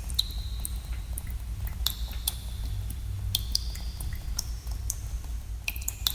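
Water drops falling in a cave, landing at irregular moments several times a second, some drops giving a short ringing plink, over a steady low rumble.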